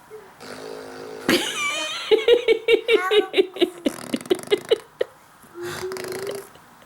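A young child's high voice laughing in a quick run of giggling pulses, about six a second, then a short held 'ahh' near the end.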